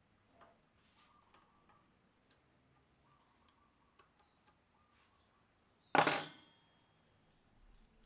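Light taps and clicks of small metal parts and tools being handled, then one loud metal clank about six seconds in that rings on briefly.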